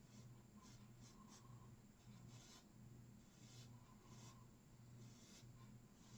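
Faint scratchy strokes of a bristle brush working oil paint on canvas, about eight short strokes at irregular intervals, over a steady low hum.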